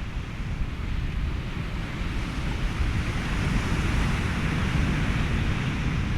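Ocean surf washing steadily under wind and a white-noise bed, with a low rumble throughout; one wave swells and eases away around the middle.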